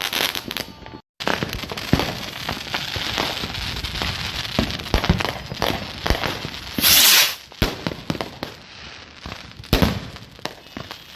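Consumer fireworks crackling and popping in dense, rapid volleys, with one loud hissing burst about seven seconds in. The sound breaks off for an instant about a second in, at a cut between clips.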